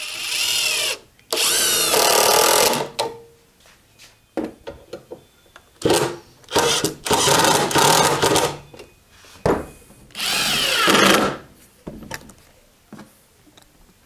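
Handheld power tool run in about six short bursts, its pitch sagging and rising as it bears on the work, with quiet gaps between bursts.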